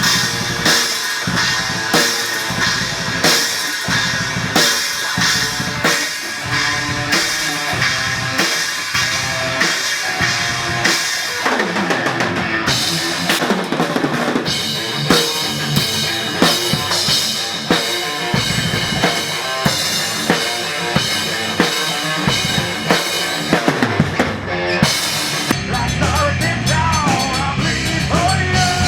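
Rock music driven by a drum kit, with bass drum and snare hits in a steady beat; the music changes character about halfway through and again near the end.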